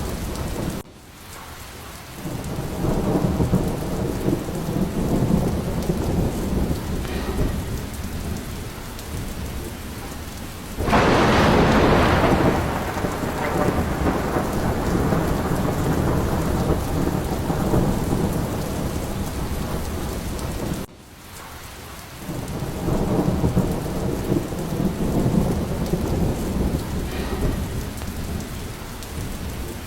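Steady rain with rolling thunder: low rumbles swell and fade, and about eleven seconds in a sudden loud thunderclap breaks and slowly dies away. The same rumble comes round again about twenty seconds later.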